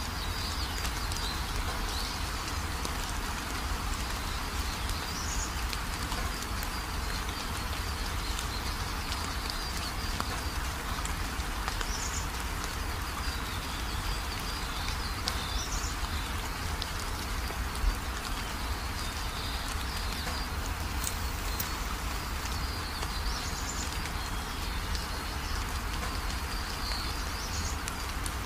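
Outdoor garden ambience: a steady hiss with a low rumble, and birds chirping every few seconds. One short sharp tap about two-thirds of the way through.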